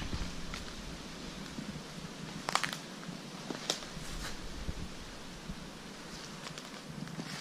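Footsteps crunching through leaf litter and twigs, with a few sharp snaps, over a light background hiss. Wind rumble on the microphone dies away at the start.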